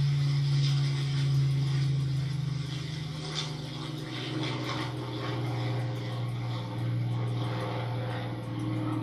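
Propeller aircraft engine droning with a steady low hum, easing slightly in the middle and building again.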